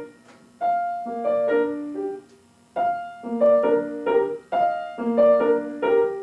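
Piano playing three short phrases of several notes each, separated by brief pauses, with the notes ringing and fading between attacks.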